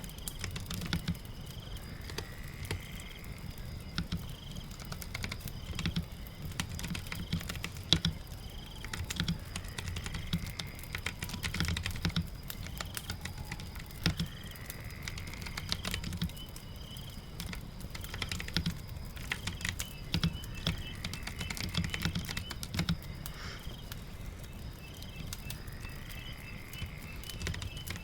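Typing on a computer keyboard in irregular runs of clicks, over a steady patter of rain.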